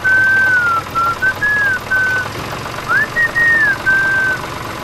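A tune whistled in a string of short gliding notes, with a steady engine running underneath.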